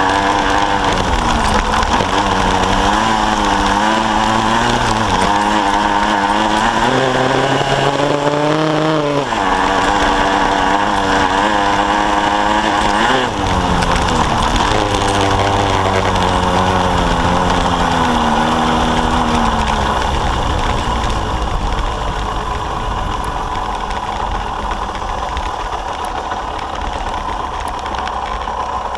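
Kawasaki KSR-2's small two-stroke single-cylinder engine being ridden on dirt, its pitch climbing and falling with the throttle and dropping sharply about nine and thirteen seconds in. From about two-thirds of the way through it settles to a lower, steadier, slightly quieter run as the bike slows.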